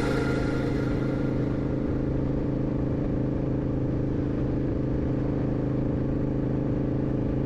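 A car's engine and road noise, a steady hum with an even rush, as the vehicle drives along at a constant speed.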